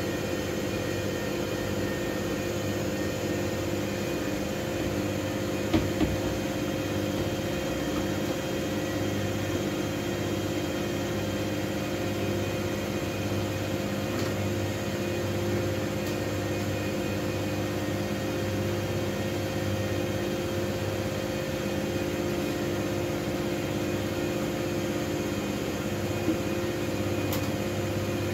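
Miele W433S front-loading washing machine running with a steady motor hum and whine that never pauses. A couple of light knocks come from the drum, once about six seconds in and again near the end.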